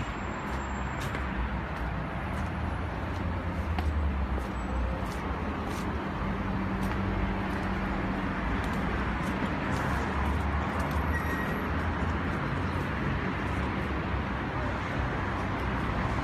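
Steady outdoor traffic noise, an even hiss over a low rumble, with a few faint short high chirps around the middle.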